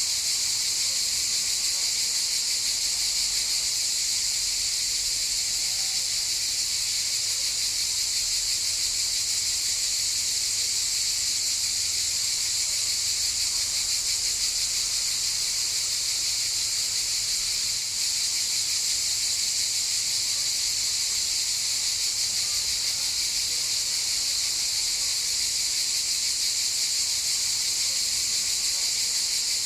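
Cicadas singing in a steady, continuous high-pitched buzz that doesn't let up.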